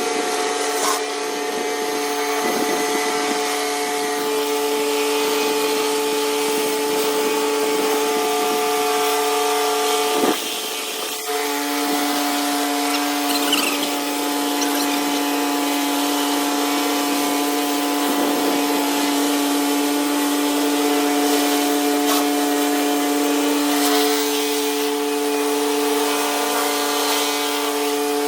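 Pressure washer running steadily with a constant hiss of spray over its machine hum; about ten seconds in there is a brief dip, after which the hum settles at a lower pitch.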